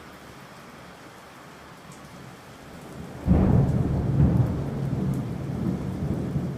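Thunderstorm: steady rain, then a loud rumble of thunder breaking in about three seconds in and rolling on.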